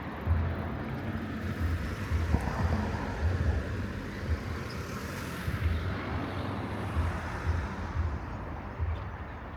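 Outdoor city street ambience: a steady broad hiss with irregular low thumps and rumbles, like wind buffeting the microphone.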